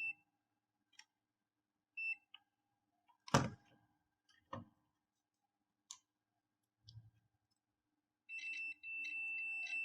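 Multimeter continuity buzzer: short beeps near the start and about two seconds in, a few sharp clicks and knocks, then a steady beep from about eight seconds in as the circuit closes, showing the connector is making good contact.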